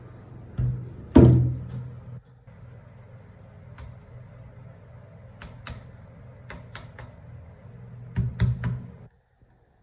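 A series of sharp clicks and knocks over a steady low hum. The loudest knock comes about a second in and rings briefly. The sound cuts to near silence just before the end.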